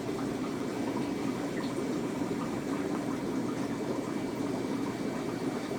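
Steady sound of circulating water from a 240-gallon aquarium's filtration and water flow.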